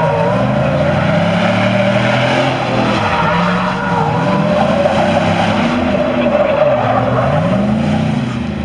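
A vehicle's tires squealing steadily in a burnout, with the engine revving up and falling back several times.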